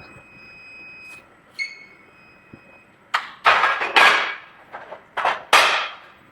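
A steady high-pitched tone for about the first second, then, from about three seconds in, a run of sharp, loud knocks, each trailing off in a short hiss.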